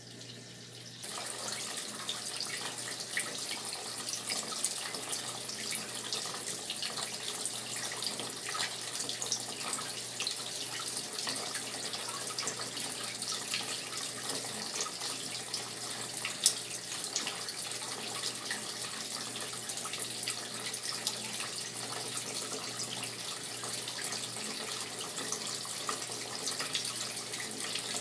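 Brastemp top-load washing machine filling, water running steadily into the drum; the flow gets louder about a second in and then holds steady.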